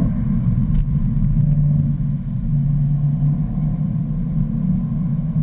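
BMW M3's V8 engine running steadily under load at track speed, heard from inside the cabin as a continuous low drone mixed with road and tyre noise.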